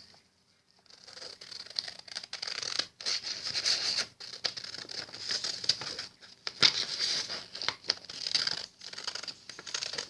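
Scissors cutting a folded sheet of paper in a run of uneven snips, with the paper rustling as it is handled; it starts about a second in.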